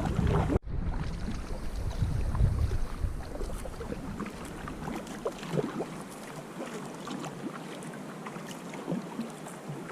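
Water splashing and lapping around a sea kayak, with scattered small splashes throughout. Wind buffets the microphone with a heavy rumble for the first four seconds, then eases.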